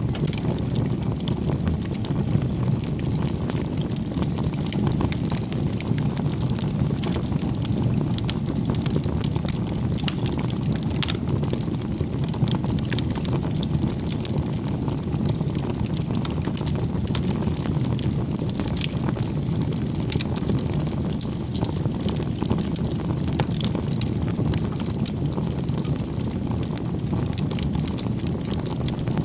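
Wood fire crackling: a steady low rumble of burning with frequent small, irregular pops and snaps.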